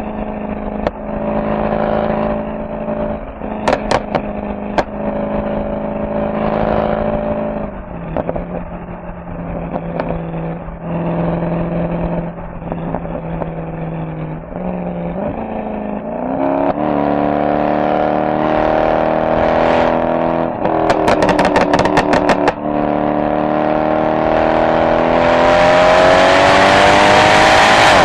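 Mercedes-AMG SL63 V8 exhaust while driving. It holds steady revs, then drops in pitch about 8 seconds in and rises again around 16 seconds. A quick run of crackles comes about 21 seconds in, and over the last several seconds the engine pulls harder, climbing steadily in pitch and loudness.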